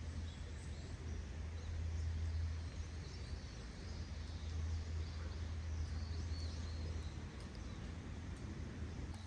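Outdoor woodland ambience: a steady low rumble underneath, with a few faint high bird chirps now and then over a soft noisy background.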